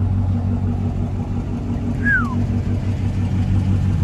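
2012 Dodge Charger R/T's 5.7-litre Hemi V8 idling steadily through a freshly straight-piped exhaust, a deep, even rumble.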